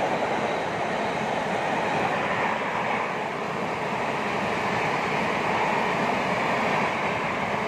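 Passenger train coaches running past on the rails, a steady, continuous rumble and rush of wheels on track.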